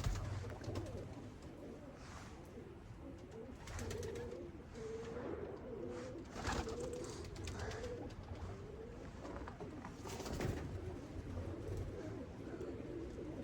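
Domestic pigeons cooing: soft, low, wavering coos repeated over and over, thickest from about four to nine seconds in.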